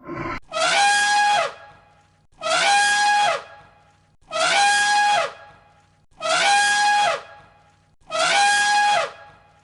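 Elephant trumpeting: five loud, alike calls about two seconds apart, each a brassy blast under a second long that drops in pitch at its end.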